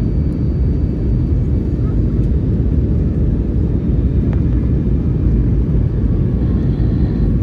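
Steady low rumble of an Airbus A320 heard from inside the passenger cabin: engine and airflow noise, unchanging in level.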